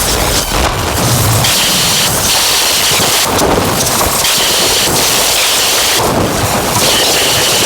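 Dense, loud distorted noise texture from a modular synthesizer patch (Make Noise Strega, Maths and Morphagene) run through Death By Audio fuzz and filter pedals: a rumbling wash with hissing swells that rise and fall every couple of seconds.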